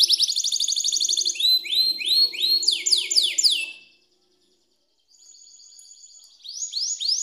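Domestic canary singing: fast rolling trills, then a run of sweeping notes that slide down in pitch. After a break of about a second a quieter trill starts, followed near the end by loud, quickly repeated upward-sweeping notes.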